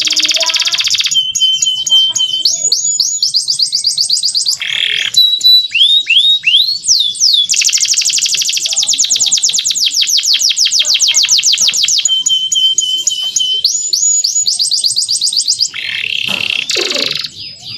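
Male domestic canary singing: a long run of fast trills and rapidly repeated high notes, with a few notes sliding down in pitch. A short, lower, rougher sound breaks in near the end.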